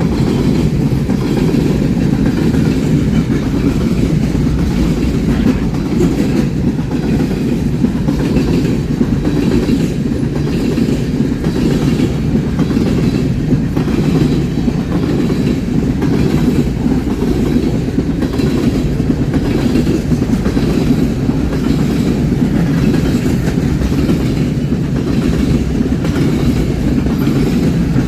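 A train rolling past close by: a steady, loud rumble of wheels on rail with light rhythmic clicking of wheels over rail joints.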